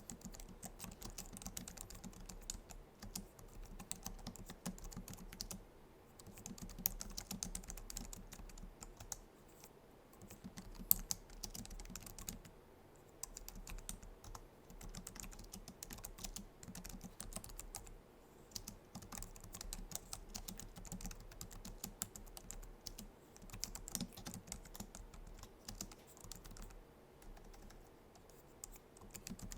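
Typing on a Logitech MX Keys low-profile scissor-switch keyboard: runs of rapid key clicks with short pauses between them.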